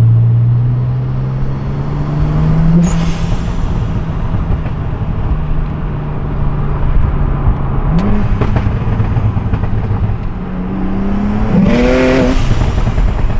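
Single-turbo BMW 335i's inline-six engine running with a steady drone, its revs climbing briefly three times.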